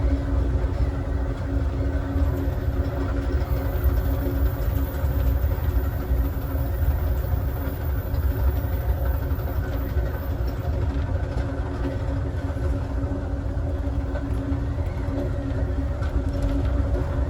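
Amtrak Southwest Chief passenger train running at speed, heard from inside its last car: a steady low rumble of wheels on rail with a constant hum over it.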